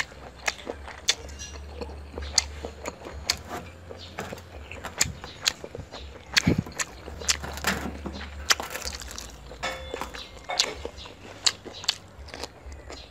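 Close-up eating sounds of a person chewing fresh rice-paper spring rolls: wet chewing with many sharp mouth clicks and lip smacks at irregular intervals, and a bite into a roll near the end.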